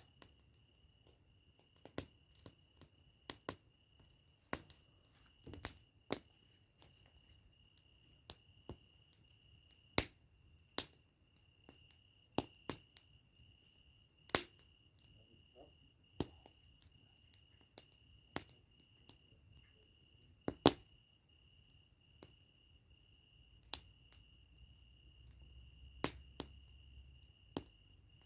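Campfire crackling: irregular sharp pops and snaps of burning wood, about one or two a second and of uneven loudness, over a faint steady high tone.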